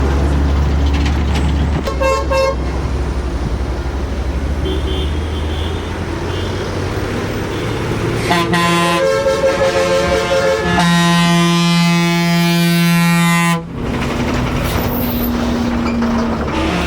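Truck engines running with vehicle horns sounding: a short toot about two seconds in, then a long, loud horn blast from about eight seconds that cuts off suddenly, followed by a fainter horn.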